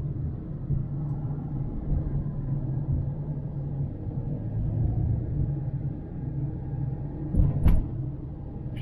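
Steady low rumble of a moving car, engine and road noise heard inside the cabin, with a short thump near the end.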